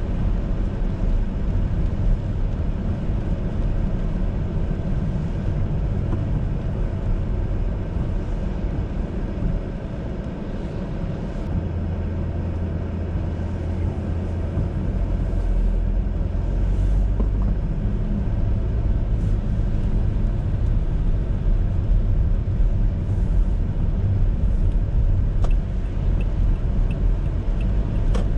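A car driving on a city road: a steady low rumble of engine and tyre noise, with a low steady drone coming in about a third of the way through.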